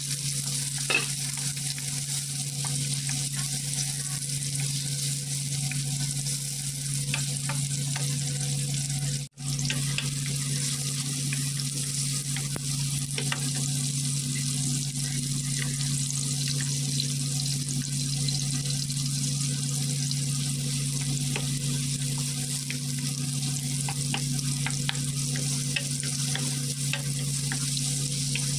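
Tomato slices and minced garlic sizzling in oil in a wok, with a wooden spatula scraping and stirring now and then, over a steady low hum. The sound cuts out for a moment about nine seconds in.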